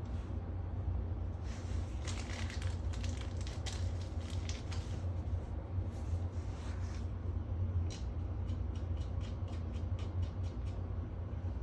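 Scattered clicks, scrapes and rustling from hands working with small parts, with a quick run of sharp clicks near the end, over a steady low hum.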